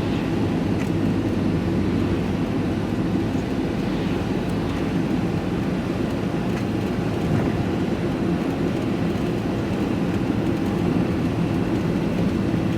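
Steady driving noise inside a vehicle's cab: engine and tyre rumble on the road at an even speed.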